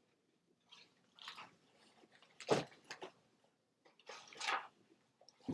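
A few short, soft rustles and clicks separated by near silence, with a longer rustle about four seconds in.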